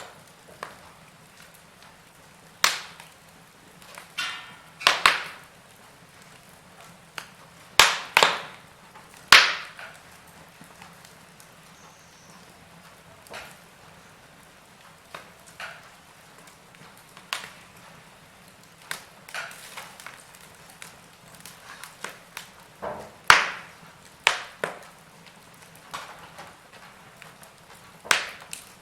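Wood fire in a fireplace crackling: a low steady hiss broken by irregular sharp pops and snaps from the burning logs, a few of them much louder than the rest.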